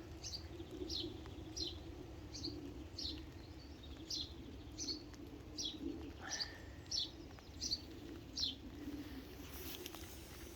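A small songbird calling outdoors, a short high note that slides downward, repeated about twice a second with a slightly uneven rhythm.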